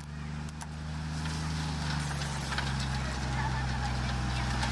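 Heavy diesel engine of an earthmoving machine running steadily, with light clicks and rattles over it.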